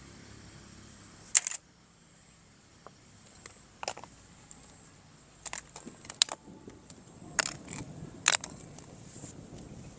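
Scattered sharp clicks and taps of hard toy parts being handled, the loudest about one and a half seconds in.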